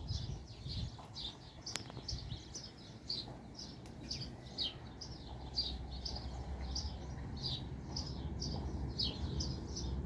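Small birds chirping in quick, repeated short notes, about two to three a second, over a steady low rumble, with a single sharp click about two seconds in.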